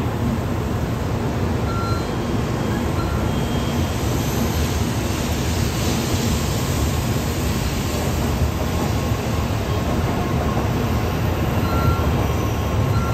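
N700A Shinkansen train running along the platform as it pulls in: a steady rumble and rush of the moving cars, with a few brief, faint high tones.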